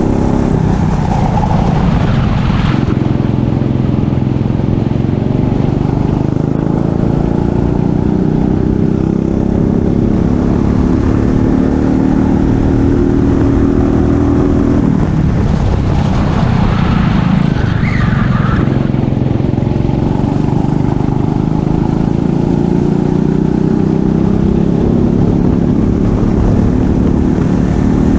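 Racing kart engine heard onboard at full throttle. Its pitch climbs slowly along the straights, drops sharply twice (near the start and about halfway through) as the driver lifts and brakes for corners, then climbs again. Heavy rumble from wind and vibration on the microphone.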